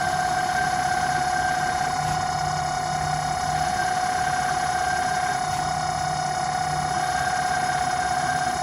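Home-built CNC lathe running: a steady high motor whine with a lower hum that drops out for a couple of seconds midway.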